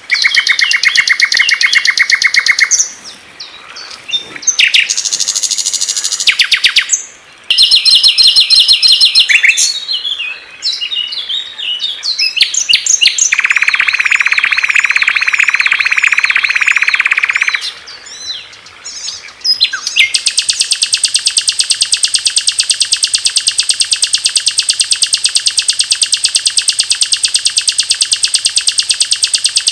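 Recorded songs of small songbirds played one after another: several short, high chattering trills and chirps, a dense trill a little under halfway through, then from about two-thirds of the way in one long, very even, rapid trill.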